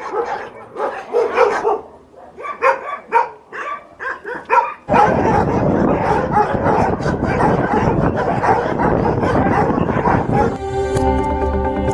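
Dogs barking and yelping in short separate calls. About five seconds in the sound cuts suddenly to a louder, dense, steady noise, and music with sustained tones comes in near the end.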